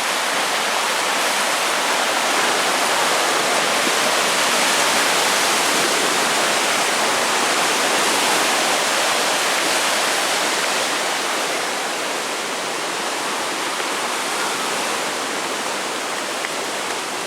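Rushing, churning river water of a tidal bore surge, a loud steady roar that eases a little about two-thirds of the way through.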